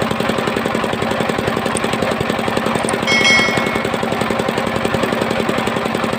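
Engine driving a homemade circular sawmill, running steadily with an even, fast pulse. About three seconds in, a brief high-pitched squeal rises over it for under a second.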